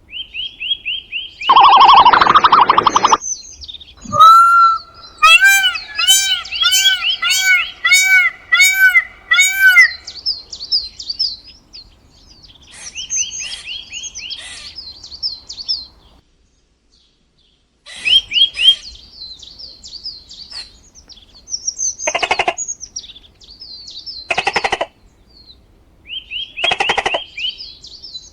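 Birds chirping and calling in quick high notes. In the first part a louder call repeats evenly about twice a second, then a clean break of silence follows, then more chirping broken by three short, loud calls near the end.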